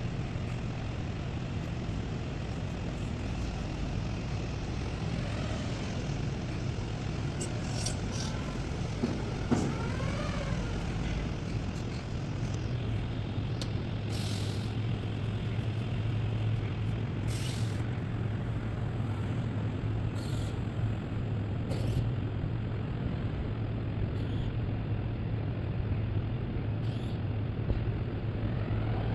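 Steady low machine hum with scattered short hisses and clicks, and a brief rising and falling whine about ten seconds in.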